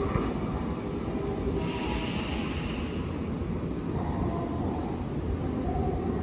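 Nankai 8300-series eight-car train running out of the station: a steady rumble of wheels on the rails, with a faint high tone falling about two seconds in.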